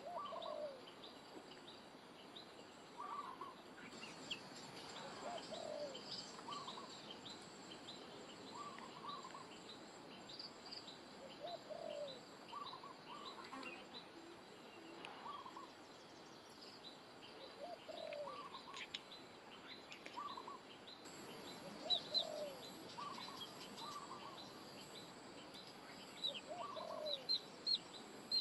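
Wild birds calling: many short, high chirps throughout, over a lower call of a few notes that repeats about every three seconds.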